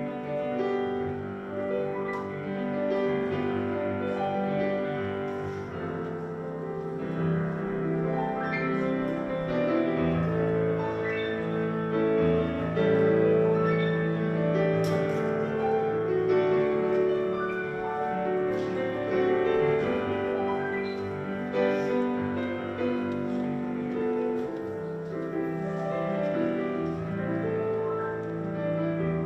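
Instrumental piano music, slow chords and melody with notes held for a second or two.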